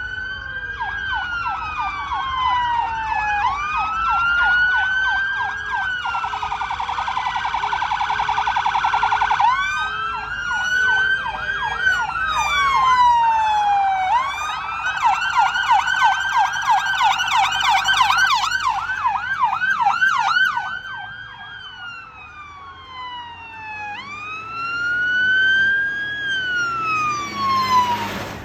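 Fire engine sirens sounding together, slow wails rising and falling about every three seconds overlapping with stretches of rapid yelping warble. They die away near the end.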